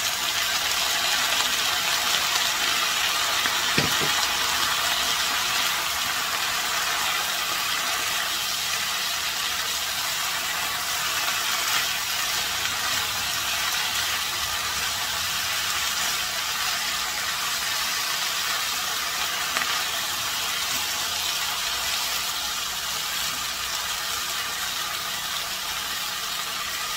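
Chicken pieces, potatoes, bell peppers, onions and peas sizzling steadily as they stir-fry in a nonstick wok. The sizzle swells as the chicken goes in, and there is one light knock about four seconds in.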